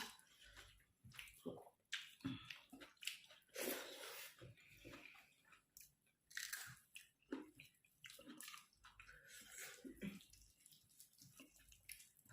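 Faint, wet chewing and mouth sounds of a person eating a meal of rice, dal and greens, in short irregular bursts.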